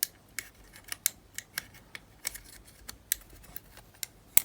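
Small sharp clicks and ticks of a precision screwdriver and small metal parts on a Panasonic RQ-S60 cassette player's mechanism as the front-cover hinge screws are taken out, about a dozen irregular clicks.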